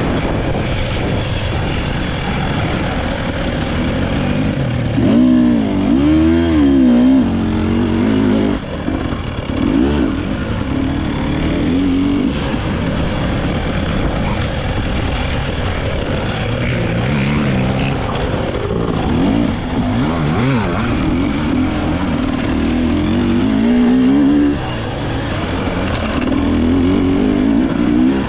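Dirt bike engine revving up and down, its pitch rising and falling again and again as the throttle is opened and closed.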